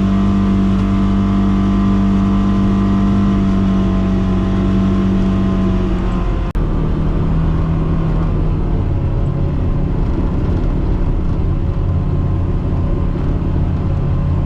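Polaris Xpedition side-by-side's engine running as it drives along, with tyre and trail noise. A steady engine note drops to a slightly lower, rougher tone after a brief break about halfway through.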